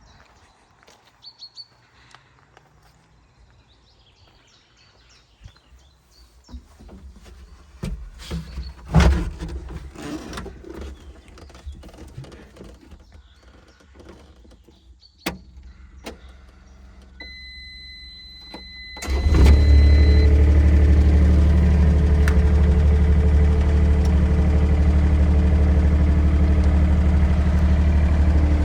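Excavator being started: a few knocks and clunks, then a steady electronic beep lasting about three seconds, then the diesel engine cranks and catches about two-thirds in and runs on at a steady idle. Faint birdsong in the quiet first part.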